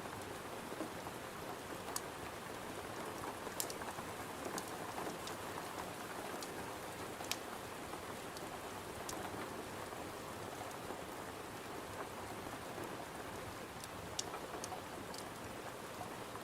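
Steady rain pattering against a window, with scattered sharp pops from a crackling wood fire.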